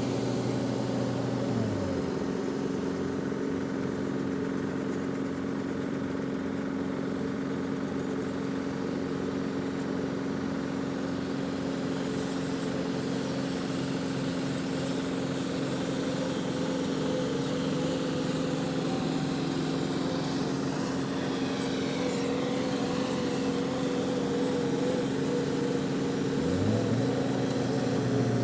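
Dump truck engine running steadily, dropping in pitch about two seconds in and rising again near the end as the revs change.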